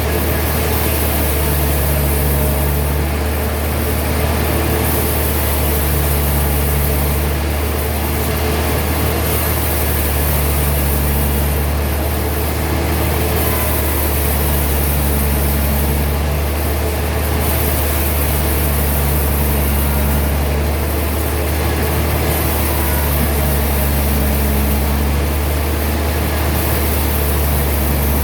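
Heavy sawmill machinery running steadily with a deep, even hum, and a second, higher hum that comes and goes about every four seconds.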